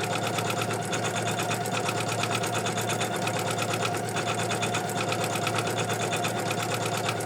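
Computerized embroidery machine stitching out an in-the-hoop design steadily, its needle making a fast, even run of strokes over a constant motor hum.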